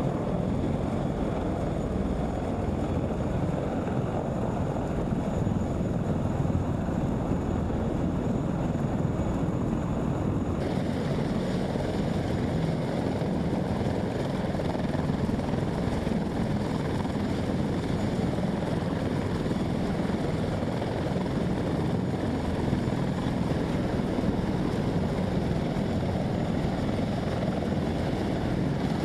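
Steady noise of military aircraft running, with their engines and rotors or propellers turning. About ten seconds in, the sound changes abruptly and gains more hiss in the upper range.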